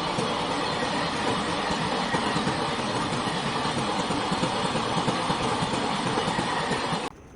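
Freight train running past, its steel wheels rattling and clattering over the rails in a dense, continuous noise that cuts off abruptly about seven seconds in.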